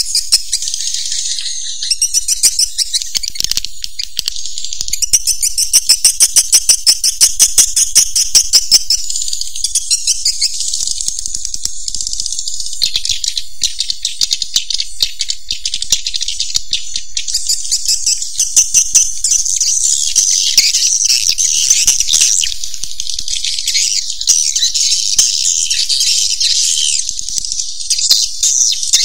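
Swiftlets twittering: a dense, high chorus of chirps and fast rattling click trains, loudest about a third of the way in. It is the kind of swiftlet call played to lure the birds into a nesting house.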